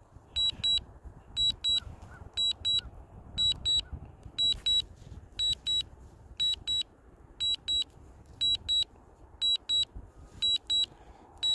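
A drone remote controller beeps steadily, two short high beeps about once a second. This is the DJI Mavic Air controller's alert while the drone flies its Return-to-Home.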